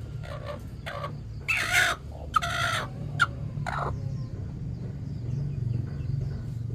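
Chickens clucking and squawking: a run of short calls, the two loudest about one and a half and two and a half seconds in. A steady low hum runs underneath.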